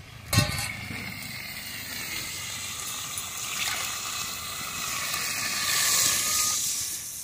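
Chicken pieces frying in oil in a steel wok over a wood fire, sizzling steadily after a short knock near the start. Near the end a bowl of yellow liquid is poured into the hot wok, and the sizzle swells into a louder hiss, then dies down.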